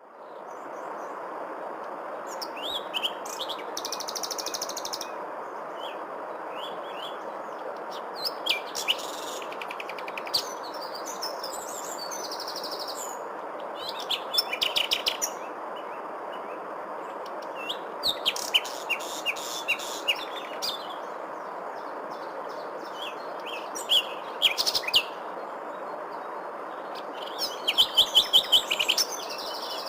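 Small songbirds chirping and trilling in scattered bursts over a steady background hiss. Near the end comes a quick run of repeated notes.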